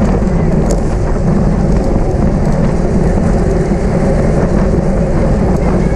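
Steady, loud rush of wind buffeting a camera microphone and road noise from a bicycle riding at race speed.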